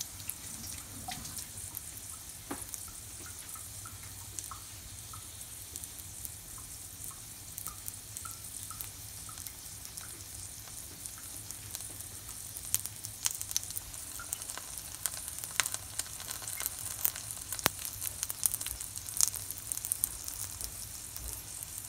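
A scallion pancake frying in shallow oil in a pan: steady sizzling, with sharp crackles and pops that come more often and louder in the second half.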